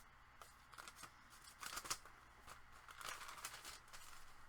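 Faint paper rustling with a few light taps and clicks as journal pages, cards and loose paper ephemera are handled, a little louder about two and three seconds in.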